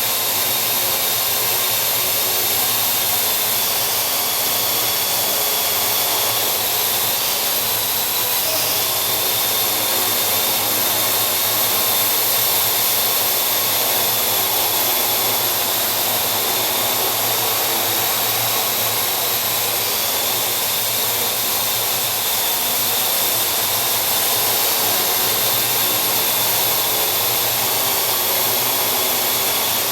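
Parrot AR.Drone quadcopter's four electric motors and propellers whirring steadily in flight, with a high whine that wavers slightly in pitch.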